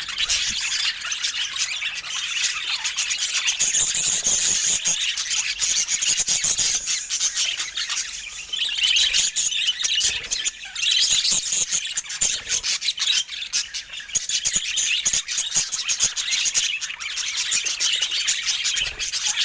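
Budgerigars chattering and chirping continuously, with many short squawky calls overlapping.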